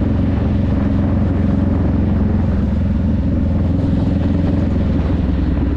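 Honda Rebel 500's parallel-twin engine and exhaust running at a steady speed, its note holding even.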